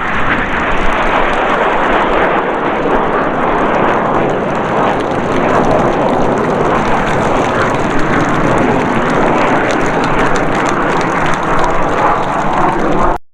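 Jet noise from the Red Arrows' BAE Hawk T1 jets, a loud, steady rush that cuts off suddenly near the end.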